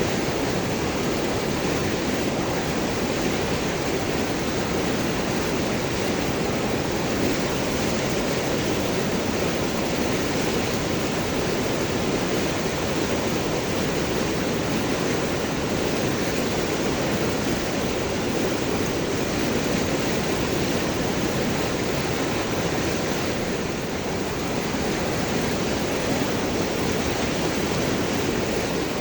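River water rushing and gurgling over and between large rocks, a steady full rush without a break.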